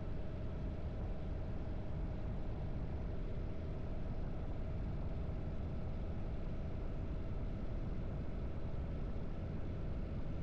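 Harley-Davidson V-twin motorcycle engine running steadily under way, with no change in revs.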